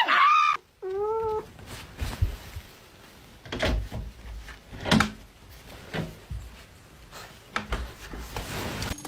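A cat meowing twice, the first call loud and the second bending in pitch about a second in, followed by scattered knocks and thumps.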